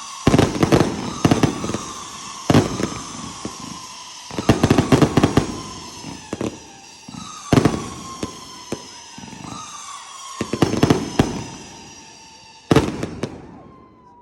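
Fireworks going off: clusters of sharp bangs and crackles, with a last loud burst near the end.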